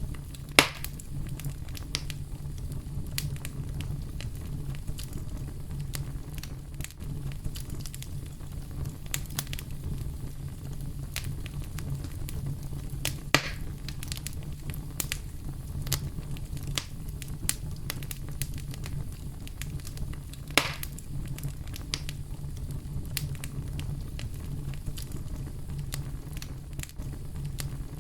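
Campfire crackling with scattered sharp pops, three of them much louder, over a steady low rumble of brown noise.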